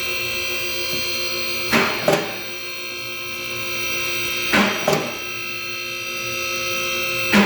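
Two-post car lift's electric hydraulic pump motor running with a steady whine as the lift raises the vehicle. A pair of metallic clacks comes about every three seconds as the post safety locks catch.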